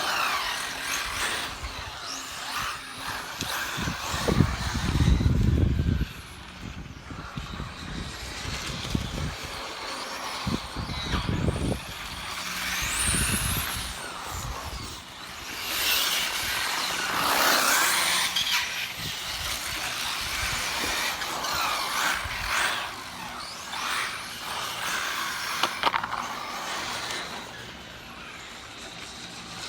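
1/10-scale radio-controlled touring cars racing, their motors whining and rising and falling in pitch as they pass, over a haze of tyre noise. A heavy low rumble on the microphone comes about four seconds in and lasts roughly two seconds.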